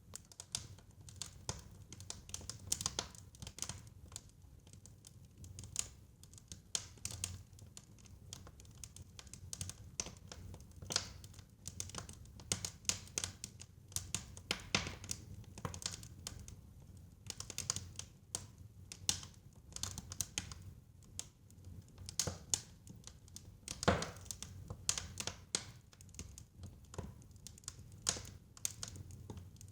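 Wood fire crackling in a fireplace: a steady stream of irregular snaps and small pops over a low rumble of burning, with one louder pop about four-fifths of the way through.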